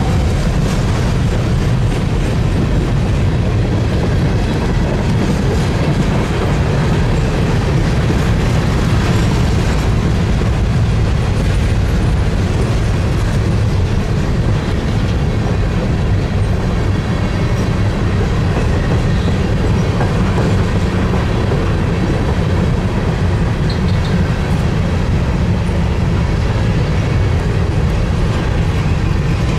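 Freight cars of a grain train rolling past: a steady, loud rumble of steel wheels on the rails.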